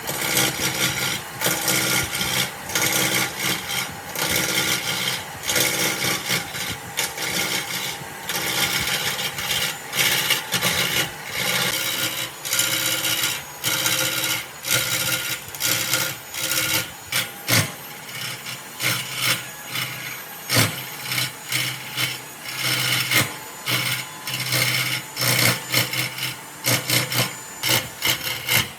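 Hand tool scraping wood in rapid back-and-forth strokes, like rasping or sanding, with two sharp knocks about two-thirds of the way through.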